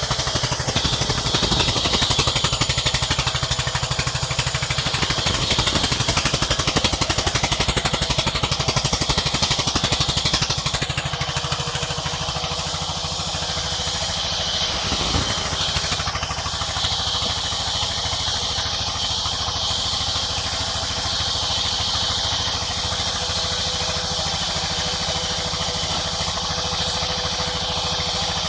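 Sawmill's engine running steadily with a fast, even pulse, a little louder for the first ten seconds or so and then settling lower.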